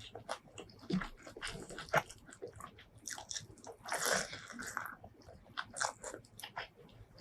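Close-miked eating sounds from a mouthful of shrimp curry and rice: wet chewing, crunching and many small mouth clicks. About four seconds in there is a louder, noisy sound about a second long.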